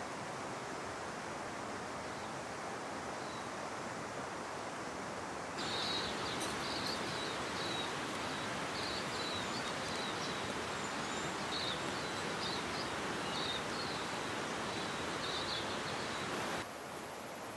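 Steady rushing noise of rain and river water. It steps up abruptly about five and a half seconds in, with short high bird chirps over it, and drops back just before the end.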